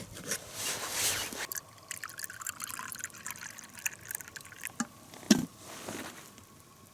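Liquid bubbling and trickling, most likely the covered pot of soup simmering over the campfire, with scattered small clicks and one sharp knock about five seconds in.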